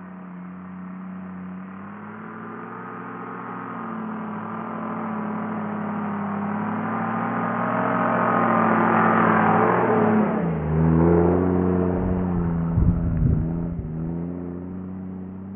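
Off-road Jeep's engine pulling up the dirt track, growing louder as it approaches, then dropping in pitch as it passes about ten seconds in and easing away. A few low thumps come just after it passes.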